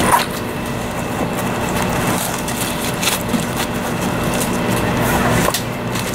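Running noise of a 500 Series Shinkansen heard from inside the passenger car: a steady rumble and hum with a sharp knock just after the start and fainter clicks a few seconds later.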